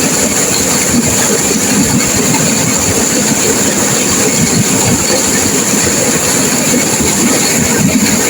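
Turbulent river water crashing and rushing, a loud steady noise without pause.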